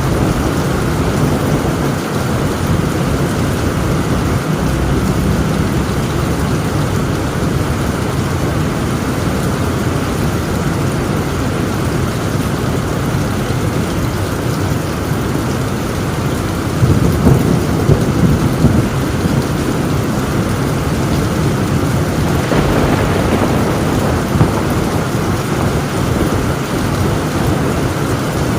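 Heavy rain pouring steadily on a tin roof, a dense even hiss, with a low rumble of thunder swelling about 17 seconds in and fading over a couple of seconds.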